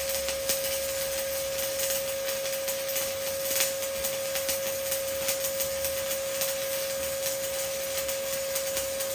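Stick-welding arc from a 1/8-inch E7018 electrode at 120 amps, crackling and spitting irregularly as a fill bead is run, over a steady high-pitched hum.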